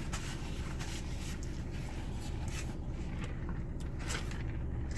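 Steady low rumble of a car cabin, with a few faint, short clicks.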